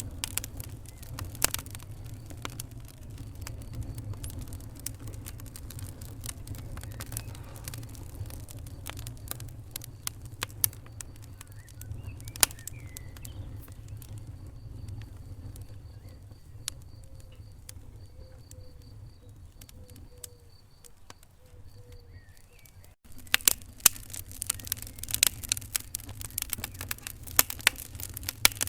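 Wood fire in a fireplace crackling and popping in irregular sharp snaps over a steady low rumble of the flames. About 23 seconds in the sound breaks off abruptly, then resumes with louder, denser popping.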